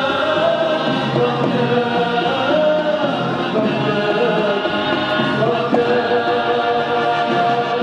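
Symphony orchestra with choir holding long, sustained chords in the closing bars of a song.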